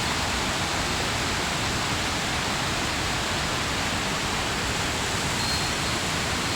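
Steady, even rush of water from a mountain stream or waterfall, with a brief faint high ring a little after five seconds.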